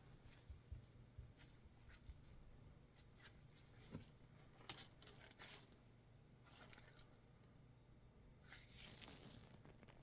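Quiet handling of earphone packaging: scattered small clicks and taps, with a brief rustle of the wrapping about eight and a half seconds in.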